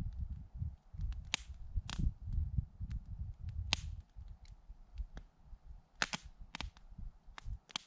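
Wood burning in a campfire, crackling with sharp pops and snaps at irregular intervals over a low, uneven rumble.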